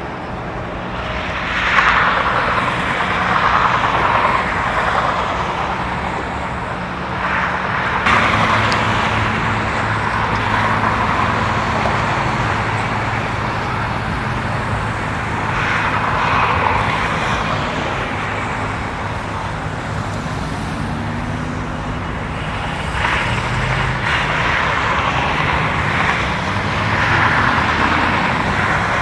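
Road traffic: vehicles passing one after another, each swelling for a second or two, over a steady engine hum. A little after twenty seconds in, an engine's pitch rises and falls.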